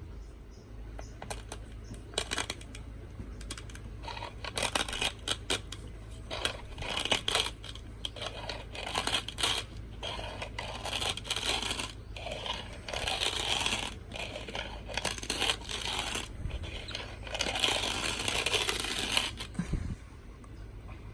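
Vintage hand-crank coffee grinder crushing coffee beans: a crunching, rattling grind in uneven bursts about a second apart, stopping about 20 seconds in.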